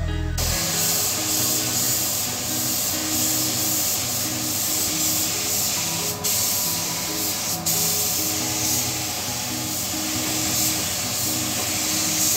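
Air spray gun hissing steadily as it sprays clear coat, cutting out briefly twice near the middle.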